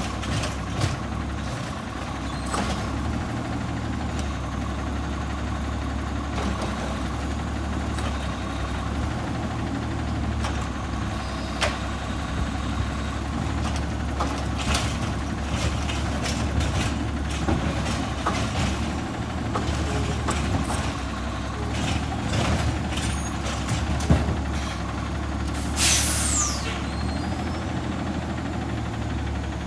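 Rapid Rail side-loader garbage truck at work, its diesel engine running steadily under repeated clanks and knocks of the mechanism and bins. A loud air-brake hiss comes about 26 seconds in.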